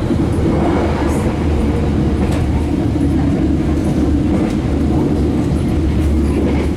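Steady low rumble of a moving passenger train heard from inside the coach, with a few faint clicks.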